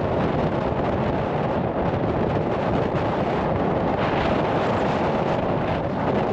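Strong wind blowing across the GoPro's microphone: a loud, steady rush of wind noise that swells a little about four seconds in.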